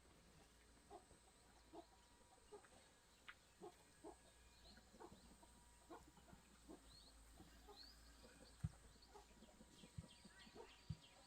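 Faint, scattered short animal calls and a few high chirps over quiet background noise, with three soft knocks in the second half.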